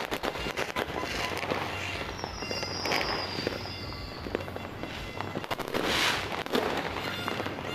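New Year fireworks and firecrackers going off in a dense, continuous crackle of small bangs. A high whistle slides slightly down in pitch from about two seconds in, and louder bursts come near three and six seconds in.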